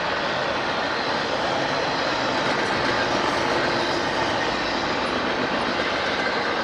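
A train rolling past the grade crossing, its wheels on the rail making a steady, unbroken rumble.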